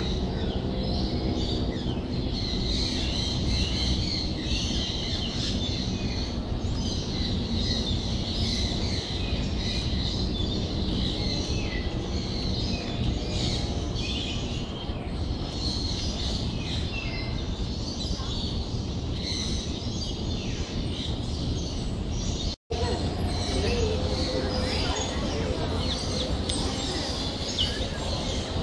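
Many birds chirping and calling continuously over a steady low background rumble, with a momentary dropout about three quarters of the way through.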